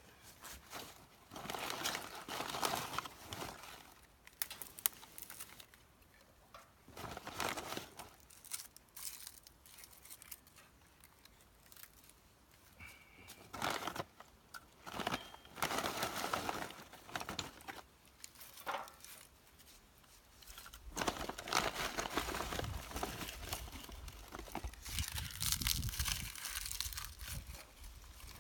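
Dry rustling and crumpling in irregular bursts, something dry being handled, with a longer, denser stretch of it near the end.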